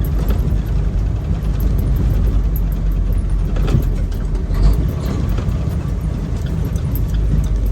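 Semi truck on the move: a steady low rumble of engine and road noise with a few brief knocks.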